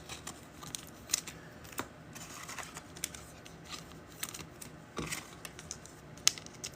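Faint, scattered clicks and rustles of trading cards and pack wrappers being handled.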